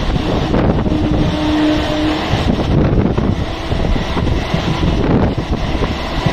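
Steady running noise of a suburban electric local train at speed, heard at an open window, with wind buffeting the microphone. A short faint tone sounds about a second in.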